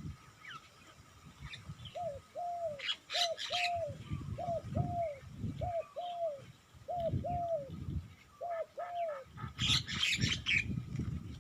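Spotted dove cooing: a repeated two-note phrase, a short rising note then a longer arched one, about six times over several seconds. Brief rustling bursts come about three seconds in and near the end, over a low rumble.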